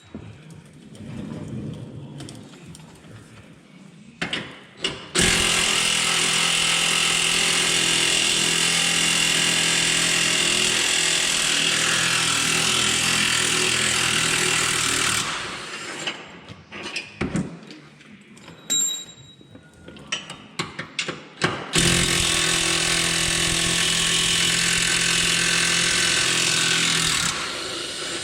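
A loud power tool or shop machine running steadily twice, for about ten seconds and then about five seconds, each run starting and stopping abruptly. Short knocks and clanks of metal parts come between the runs.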